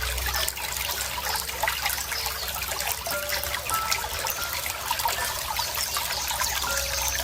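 Running water trickling and splashing steadily over stones, with a few faint short bird chirps.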